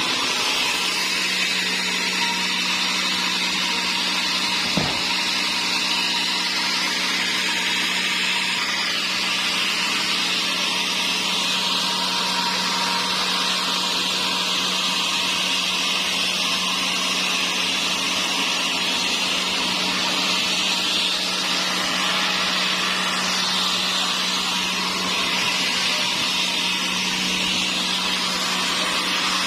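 Sawmill saw running steadily through dry teak, a constant high-pitched cutting noise over a low hum, with one short knock about five seconds in.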